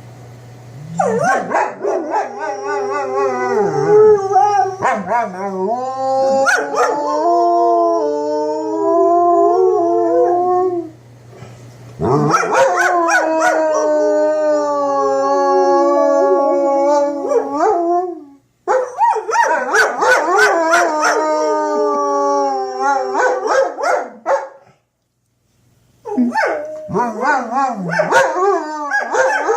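Two German Shepherds howling together at a tornado siren test: long, wavering, overlapping howls in several bouts with short breaks between them.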